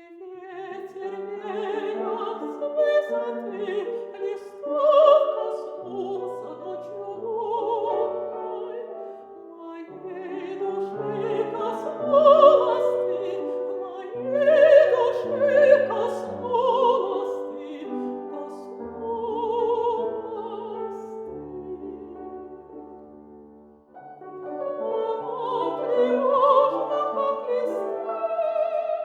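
Mezzo-soprano singing a Russian art song in classical style, accompanied by piano. The voice breaks briefly about five seconds before the end, then comes back in over the piano.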